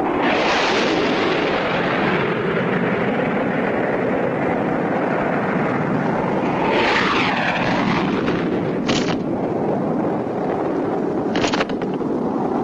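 Cartoon sound effects: a long, loud rushing whoosh like a plane flying past, with a swooping whoosh about seven seconds in and short sharp blasts about nine and eleven and a half seconds in.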